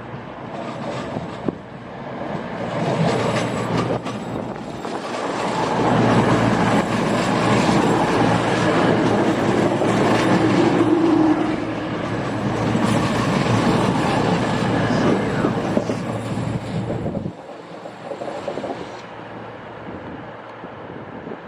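A train running through the station close by: its rumbling and rushing noise builds, stays loud for about ten seconds, then drops away abruptly. Thin high steady tones, typical of wheel or brake squeal, ride over it until shortly after the drop.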